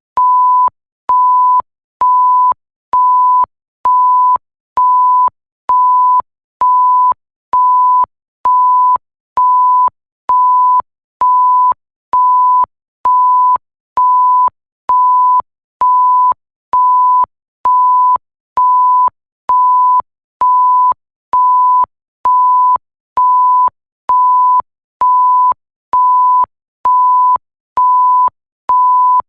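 Electronic 1 kHz sine-tone bleep, the classic censor bleep, repeating about once a second: each beep a little over half a second of one steady pitch, starting and stopping abruptly with a faint click at each edge.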